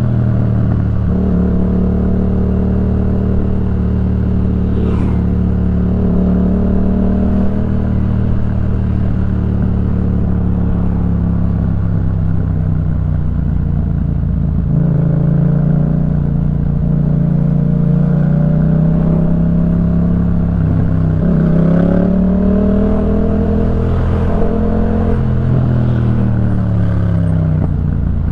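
Yamaha MT-07's 689 cc parallel-twin engine breathing through a Jeskap K4 full exhaust, running loud and steady under way, its pitch dropping and climbing again several times as the rider shifts and works the throttle.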